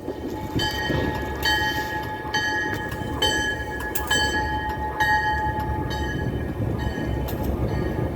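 Train running past with a low steady rumble while a locomotive bell rings at an even pace of a little over one strike a second, fading out in the second half.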